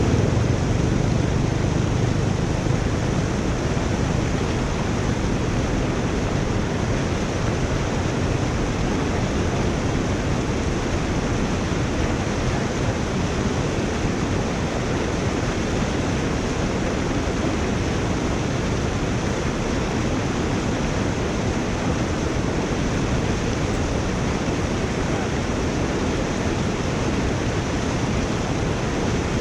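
Steady rush of water draining through a culvert, an even, unbroken noise.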